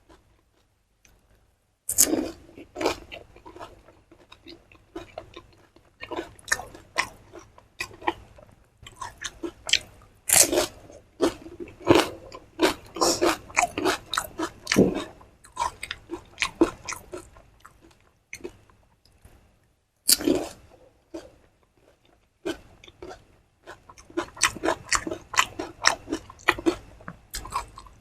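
Close-up crunching and chewing of crisp fuchka, the hollow fried puris cracking between the teeth in bursts of sharp crackles. Loud bites come about two, ten and twenty seconds in, with short pauses between the bursts.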